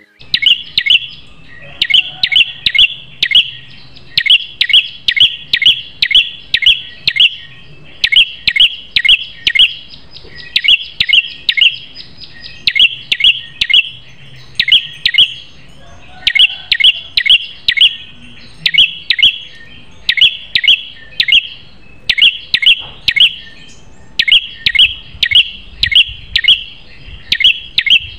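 Ashy tailorbird (prenjak kepala merah) calling loudly: sharp, high chirps in quick bursts of three to five notes, repeated over and over with short pauses between bursts.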